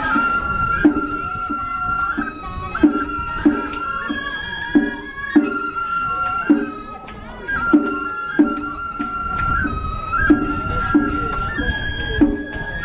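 Japanese festival float music (hayashi): a bamboo transverse flute plays long held notes that slide between pitches, over regular drum beats.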